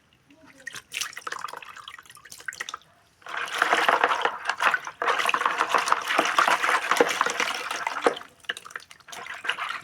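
Water splashing and pouring with many small drips: a lighter trickle at first, then a heavier steady rush from about three seconds in until about eight seconds in, thinning back to drips.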